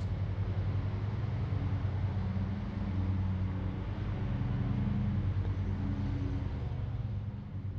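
A vehicle engine running with a steady low hum, easing off slightly near the end.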